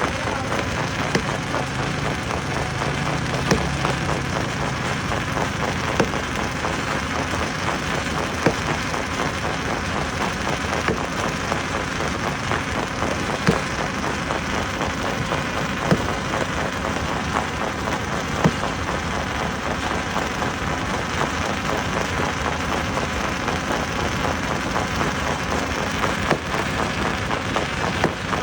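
Stone crusher running, with rock crackling and rattling through it and a sharp knock about every two and a half seconds.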